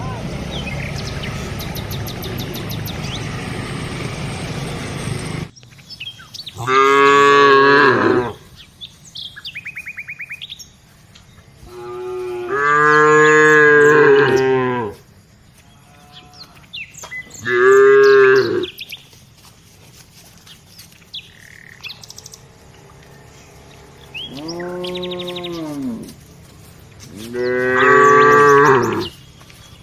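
Cattle mooing: five long, loud moos a few seconds apart, each lasting one to three seconds. Before them, a steady rushing noise that cuts off suddenly about five seconds in, and a few faint bird chirps between the moos.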